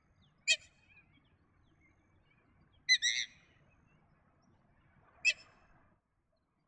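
Short, sharp bird calls, three of them about two and a half seconds apart, the middle one a quick double call.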